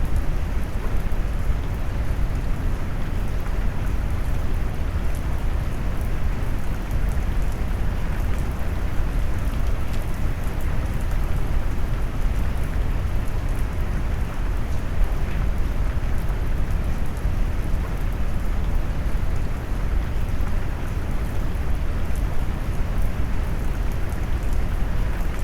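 Steady rain mixed with deep brown noise: a constant low, warm rumble with the patter of raindrops on top, unchanging throughout.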